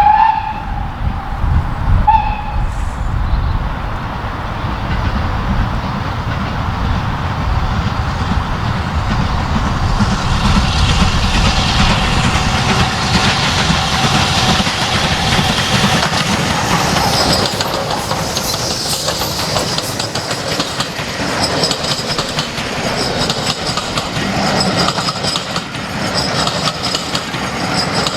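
Steam locomotive gives two short whistle toots, then its train passes with a heavy rumble and wheels clattering over the rail joints, with some high wheel squeal in the second half.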